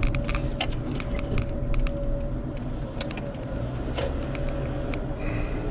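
Car driving: a steady low rumble of engine and road noise heard inside the cabin, with scattered small clicks and rattles.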